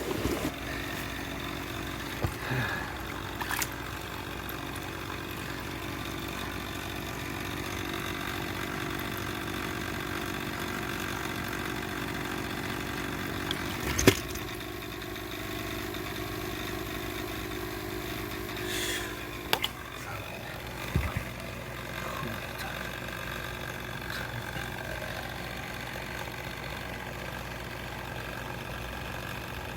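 An engine running steadily at low speed, with a few sharp knocks or clunks, the loudest about halfway through.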